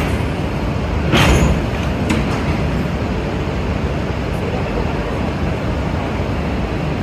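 Steady rumble and hum of Shinkansen trains standing at a station platform, with one short burst of noise about a second in.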